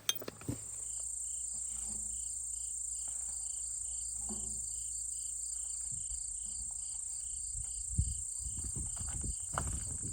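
Insects chirping: a steady high-pitched drone with a rhythmic chirp repeating about three times a second. There is a sharp click at the start and a few low thumps in the last seconds.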